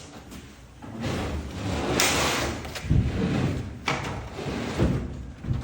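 A heavy item being pushed and slid into place, scraping over a hard surface, with several knocks and thuds.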